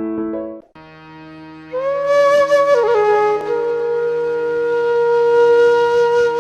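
Background flute music: a keyboard passage stops about half a second in, then after a brief gap a flute enters and holds long notes, bending down near the middle, over steady drone tones.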